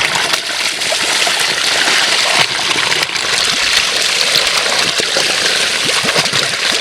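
Water running steadily, a constant rush with gurgling.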